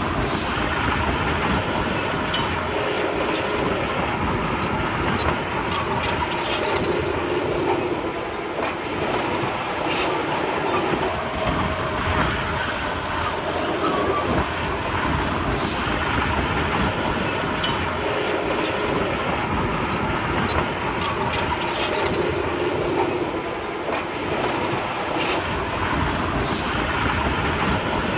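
Komatsu D31P crawler bulldozer running steadily under load, its diesel engine going with the clank and squeak of its steel tracks.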